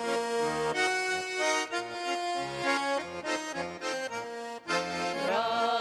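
Accordion music: held chords over an alternating bass line, with a wavering melody line coming in near the end.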